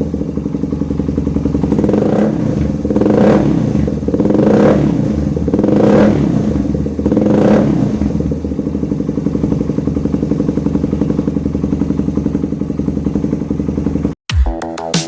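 Suzuki Satria FU's 150 cc single-cylinder four-stroke engine through a Lone Rider mini-cone trioval exhaust, blipped in about five short revs, then idling steadily. Near the end it cuts off suddenly and electronic music starts.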